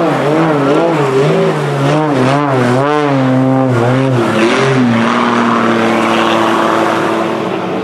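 CAP 231 aerobatic plane's propeller engine running under power. Its pitch swings up and down repeatedly for the first few seconds as it manoeuvres, then settles on a steadier, lower note.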